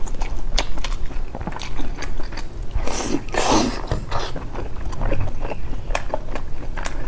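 Close-miked eating sounds: wet chewing, biting and lip smacks from someone eating braised eggs in chili sauce, with a longer breathy noise through pursed lips about three seconds in.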